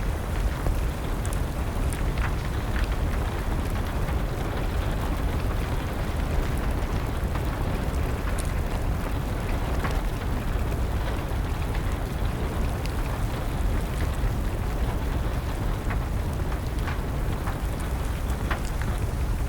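Fire crackling with scattered sharp pops over a steady wash of rain and a low rumble.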